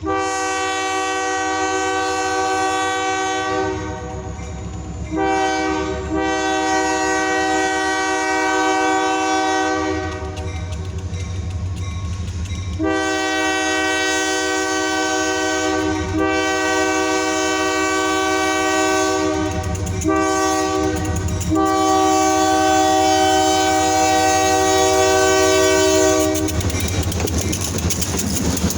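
Diesel locomotive air horn on a Kiamichi Railroad SD40-2 freight, a multi-note chord sounded in several long blasts with a short one near the end, the pattern blown for a grade crossing. Under it the locomotive's diesel engines rumble steadily and wheels click over the rail joints, continuing after the horn stops about 26 seconds in.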